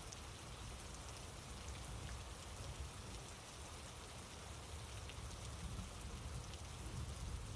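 Steady, faint rain: an even hiss of falling rain with scattered light drop ticks.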